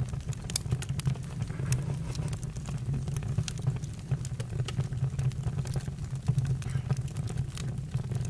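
Campfire burning: wood crackling with frequent irregular sharp pops and snaps over a steady low rumble.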